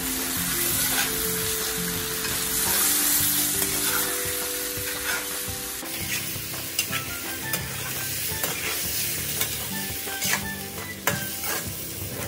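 Chicken pieces in tomato sauce sizzling in a stainless-steel wok while a spatula stirs and turns them. A steady sizzle, with clicks and taps of the spatula against the pan that grow more frequent in the second half.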